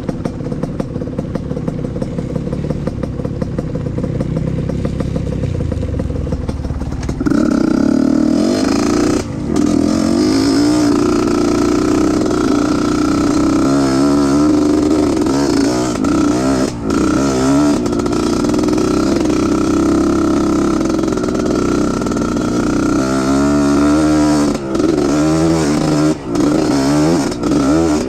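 Trail motorcycle engine running under way, jumping louder and higher about seven seconds in, then revving up and down with the pitch wavering, with a few short drops where the throttle is let off.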